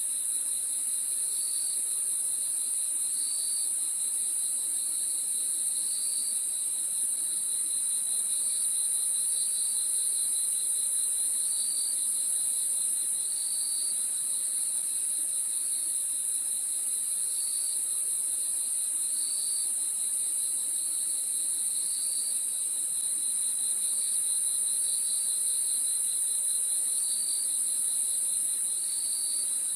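Crickets chirping in a steady night chorus: a continuous high trill, with a lower chirp repeating about every second or two.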